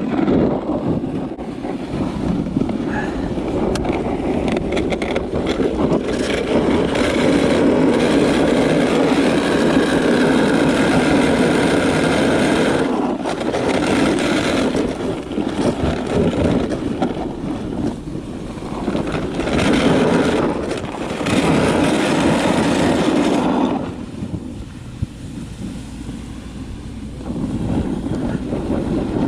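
Wind rushing over the microphone and a towed wagon sled scraping and hissing over snow at speed, a loud steady rush that drops quieter near the end.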